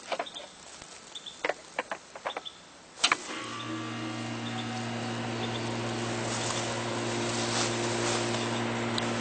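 A few light clicks, then about three seconds in a sharp click as a package A/C unit switches on, and its compressor and outdoor fan start into a steady hum that grows gradually louder. The compressor is starting and running on a newly replaced run capacitor after failing to start with the old, leaking one.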